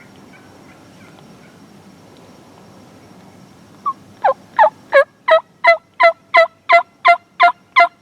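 A turkey yelping: a run of about a dozen loud yelps at roughly three a second, starting about halfway through.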